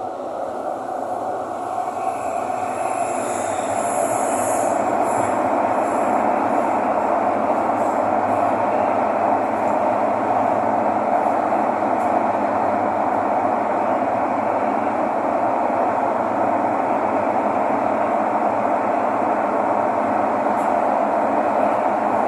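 Thomson-East Coast Line metro train running between stations, heard from inside the carriage: a steady rumble and rush of wheels on rail. It builds over the first few seconds, with a faint high squeal for a moment, then holds steady at speed.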